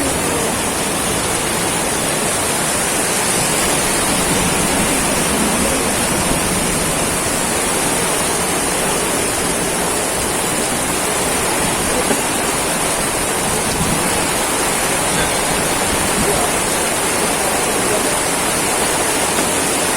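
Heavy rain falling in a steady downpour, an even rushing noise that holds at one level throughout.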